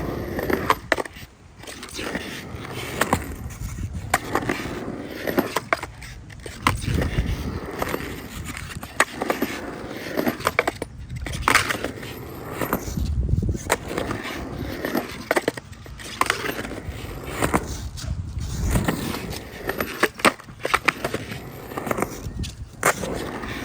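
Skateboard with loose trucks rolling on a ramp, its wheels rumbling, with sharp clacks every second or two as the board rocks and slaps onto the coping during rock and rolls.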